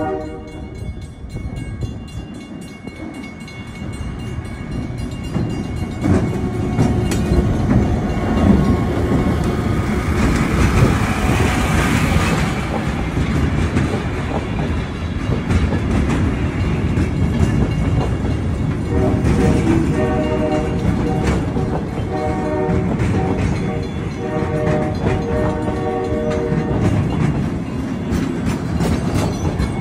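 Diesel-led passenger train passing over a road crossing: the end of a horn blast right at the start, then the locomotive's rumble building about six seconds in and the coaches' wheels clicking over the rail joints. A crossing bell rings repeatedly through the later part.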